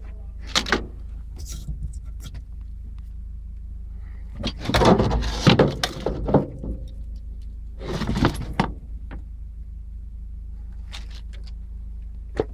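Bursts of knocking and clattering, like metal parts being handled, loudest in a long cluster around the middle and a shorter one a few seconds later, over a steady low rumble.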